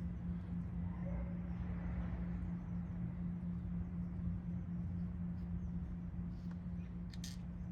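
A steady low hum, with a couple of faint clicks near the end.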